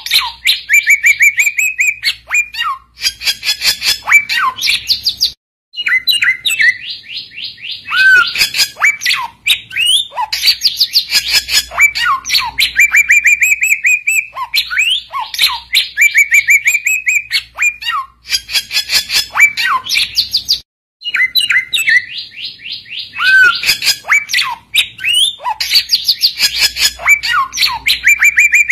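Samyong bird singing loudly and continuously: a rapid run of high chirps, trills and short whistles, the kind of calling used to draw other samyong birds to answer. The same song phrase of about fifteen seconds repeats, each time after a brief break.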